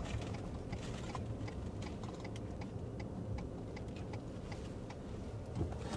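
Vehicle turn-signal indicator clicking steadily, about two clicks a second, inside the cab over the low hum of the running engine.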